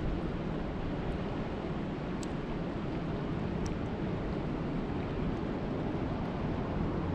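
Steady, even rush of water, heavy in the low end, with a few faint short ticks.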